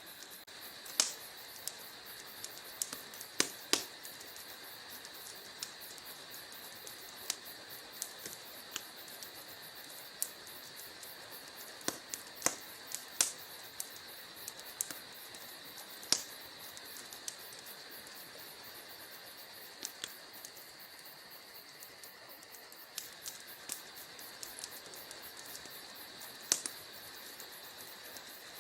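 Wood fire burning in a fireplace: a steady hiss under irregular sharp crackles and pops, a few of them much louder than the rest.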